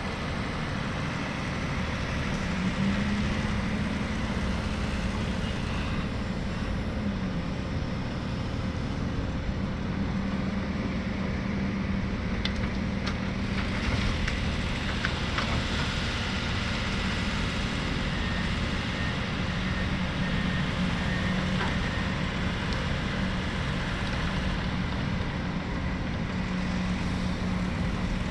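Heavy earth-moving machine's engine running steadily, its pitch stepping up a few seconds in, with a few light clanks around the middle.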